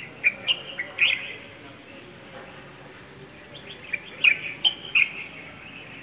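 Small birds chirping: a quick run of short, sharp chirps in the first second, then a second run about four to five seconds in.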